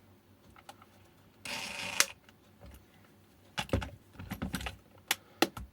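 Clicks, knocks and a short scrape from handling an e-bike battery case and its screws during reassembly: a brief scrape about a second and a half in ending in a sharp click, then a cluster of clicks and knocks from about three and a half seconds in.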